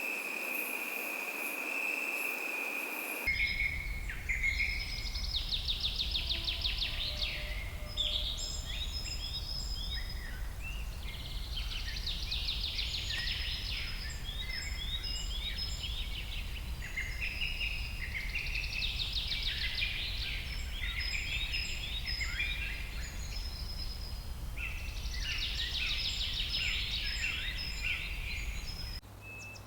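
An insect buzzing on one steady high note, then about three seconds in an abrupt switch to songbirds singing, with repeated fast trilling phrases over a steady low rumble.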